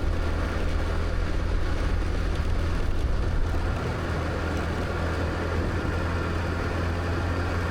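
Scooter engine running steadily with a low hum, under even road and wind noise.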